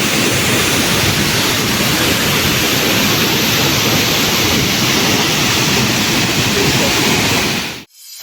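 Waterfall pouring, a loud, steady rush of falling water that cuts off suddenly near the end.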